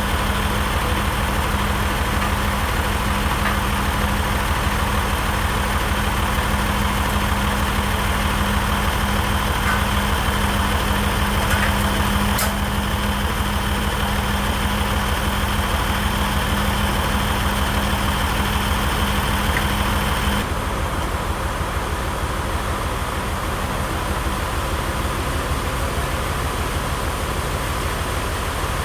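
An engine at the sawmill running steadily at idle, with a steady hum over it that stops about twenty seconds in, leaving the engine running a little quieter.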